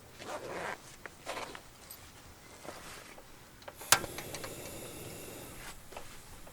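Rustling handling noises, then a sharp click about four seconds in followed by a steady hiss that stops about a second and a half later.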